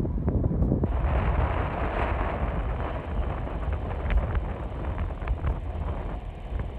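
Wind buffeting the microphone over the rumble of an approaching train. About a second in a broader rushing noise sets in with a faint steady high tone, and there are scattered light clicks.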